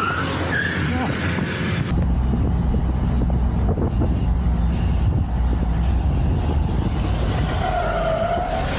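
Motorcycle riding on the road, with engine rumble and steady wind noise on a rider-mounted camera microphone. About two seconds in the sound changes abruptly to a deeper, more even rumble.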